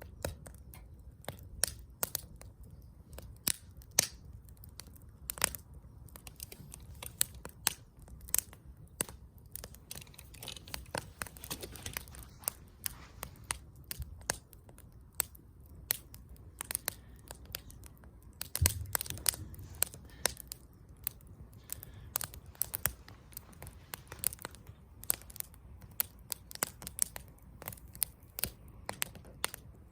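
Wood campfire crackling: irregular sharp pops and snaps over a low steady rumble of the flames, with a brief flurry of pops about two-thirds of the way through.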